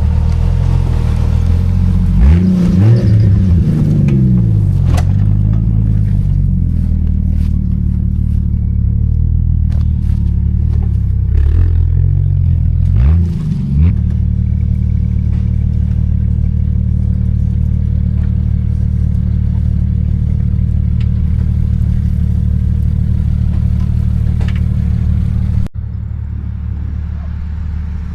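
Off-road 4x4 engine running steadily, revved up and back down twice, a few seconds in and again near the middle, with scattered knocks and clatter. The sound drops suddenly in level near the end.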